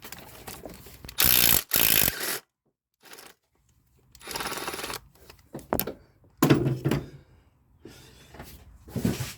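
Impact wrench run in several short bursts, the two loudest about a second in. It is driving a bolt into a cross-threaded starter mounting hole to clean up the damaged threads.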